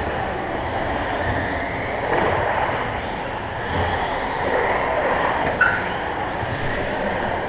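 1/10-scale electric RC stadium trucks racing on an indoor carpet track: a steady blend of motor whine and tyre noise, with faint rising and falling pitches as the trucks speed up and slow down. A sharp click comes about five and a half seconds in.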